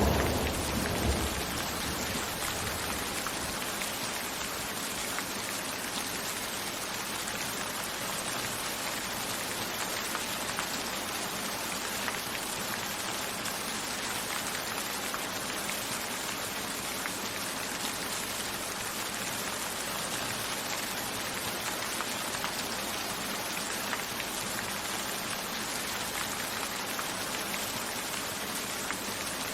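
Steady, even rainfall, the last of a rumble of thunder dying away in the first second or two.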